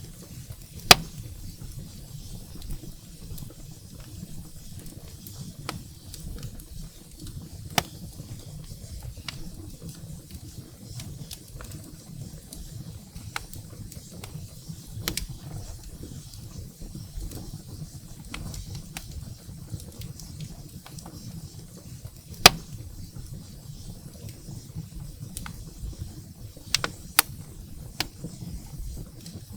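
Wood fire burning in a fireplace: a steady low rumble of the flames with scattered sharp crackles and pops of the firewood. The loudest pops come about a second in and again past the middle, with a few more close together near the end.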